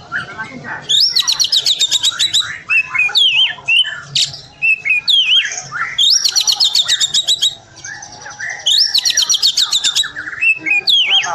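Oriental magpie-robin (kacer) singing agitatedly: three rapid runs of quickly repeated high notes, about a second in, around the middle and near the end, with varied whistled notes sliding up and down in between.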